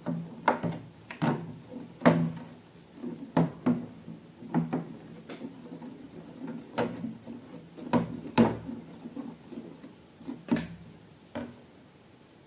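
Irregular sharp taps and clicks of objects being handled against a hard surface, roughly one or two a second, over a faint low steady hum; they stop shortly before the end.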